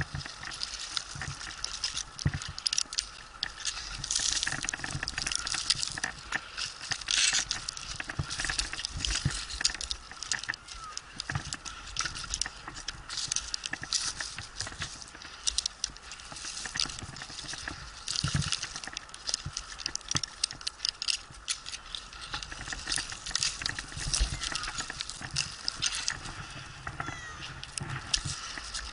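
Close rustling, scraping and clicking of a climber working up a pine trunk on rope loops: rope, bark and clothing rubbing. A cat meows faintly now and then.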